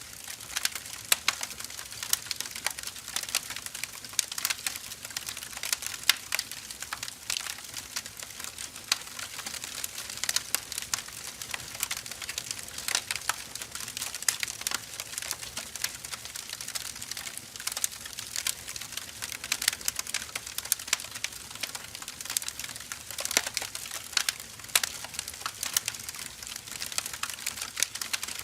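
Burning firewood crackling: a dense, irregular run of small pops and snaps over a soft hiss, with a louder sharp crack here and there.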